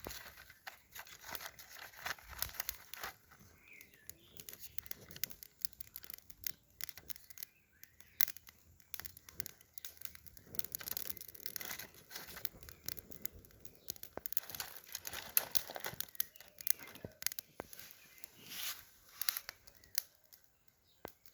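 Dry twigs, bark and firewood crackling and snapping in many irregular sharp clicks, with rustling.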